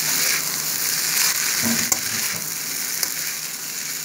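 Vegetable fried rice sizzling in a steel kadai over a high flame, stirred with a spatula that scrapes across the pan in repeated strokes. There is one sharp click about halfway through.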